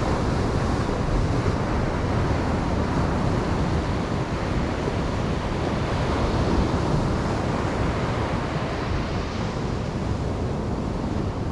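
Ocean surf washing steadily onto a beach, a continuous rushing wash with a heavy low rumble, likely partly wind buffeting the microphone.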